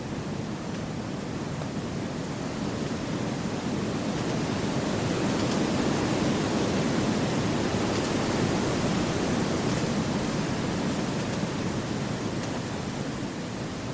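Wind blowing through forest trees: a steady rushing that swells in a gust about five seconds in and eases off again near the end.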